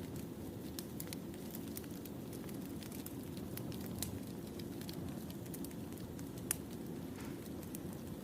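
Firewood burning in a campfire: a steady low rush of flames with scattered sharp crackles and pops, the loudest pop about six and a half seconds in.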